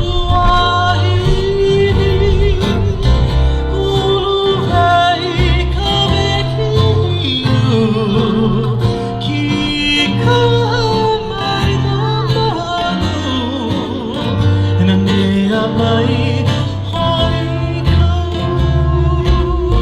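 Hawaiian vocal group singing a song with acoustic guitar accompaniment, voices gliding between held notes over plucked strings and bass.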